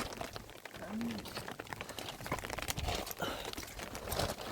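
Irregular light knocks and clicks with some rustling, and one brief low sound that rises and falls about a second in.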